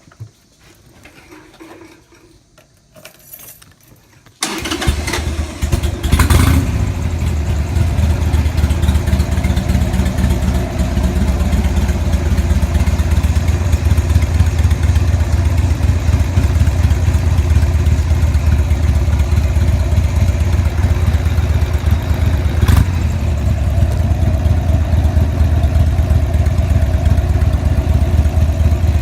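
Motorcycle engine starting about four and a half seconds in, then idling with a steady, low, pulsing rumble. A single sharp click sounds a little past the middle.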